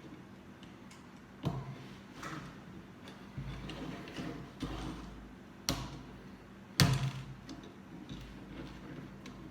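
Lego bricks and plastic parts being handled and pressed together: scattered sharp clicks and knocks with light rattling between, the loudest knock nearly seven seconds in.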